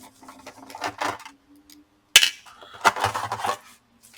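Small metallic clicks and clinks of a screwdriver and screws as screws are taken out of a laptop's bottom case: a few sharp taps about a second and two seconds in, then a short cluster of clinks around three seconds.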